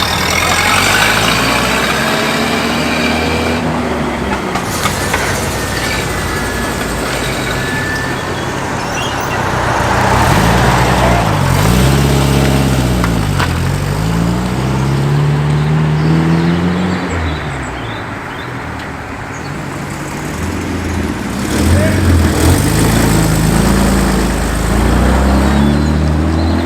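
Car engines pulling away one after another, each revving up and dropping in pitch at gear changes, with general road and engine noise between.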